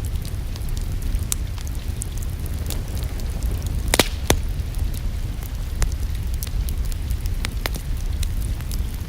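Wood fire crackling: irregular sharp pops and snaps over a steady low rumble of flames, with a louder pair of pops about four seconds in. A faint patter of rain lies underneath.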